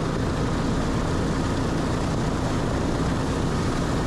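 B-29 Superfortress's Wright R-3350 radial piston engines and propellers running at a steady, even drone.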